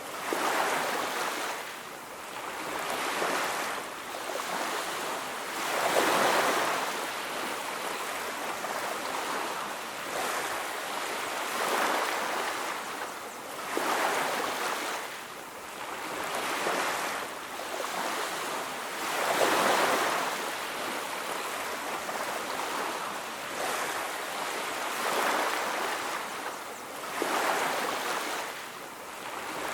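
Ocean surf washing onto a beach, a steady rush of water that swells and fades as each wave comes in every few seconds.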